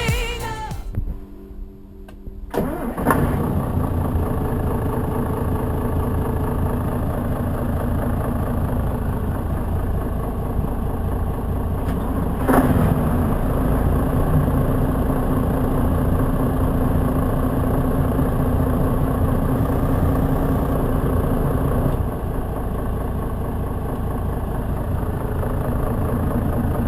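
A motor yacht's engines start about two and a half seconds in and then run steadily at idle, with a brief surge about halfway through.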